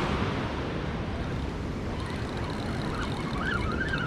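Wind buffeting the microphone over the steady wash of ocean surf. About halfway through, a thin, wavering high-pitched tone comes in and keeps going.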